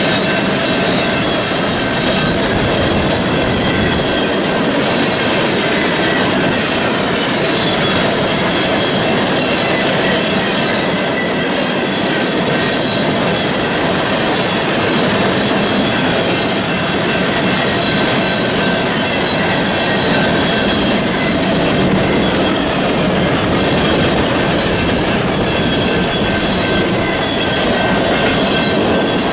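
Freight train cars rolling past, steel wheels on rail making a steady loud rumble and clatter with a faint, steady high-pitched squeal over it.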